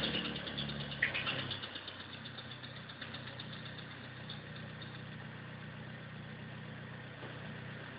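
Chevrolet Chevette engine falling back from a rev over the first couple of seconds and settling into a steady idle, with a short click about a second in.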